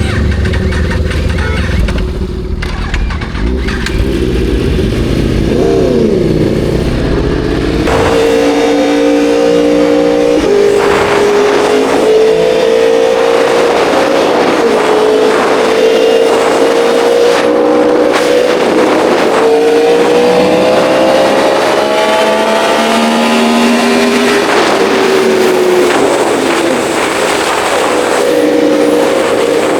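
A sportbike engine, heard from the riding bike, rumbles low for the first few seconds with a short rev. It then pulls away and accelerates: its pitch climbs steadily through the gears and steps at each shift, over a steady rush of wind.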